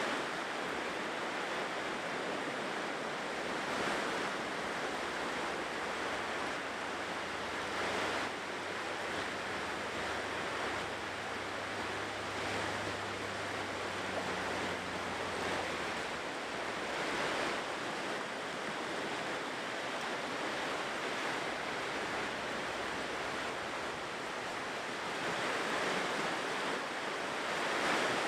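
Ocean surf washing onto a shore, a steady hiss that swells each time a wave breaks, every four to five seconds or so. A faint low steady hum runs under it for about the first half and then stops.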